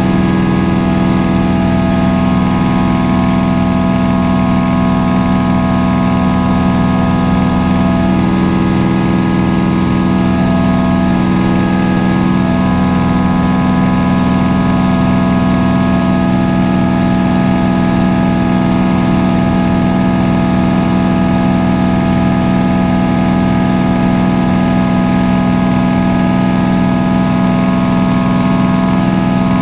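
Propeller aircraft engine droning steadily in flight, heard from inside the cabin, with a strong low hum and fainter higher tones that shift slightly about a third of the way in.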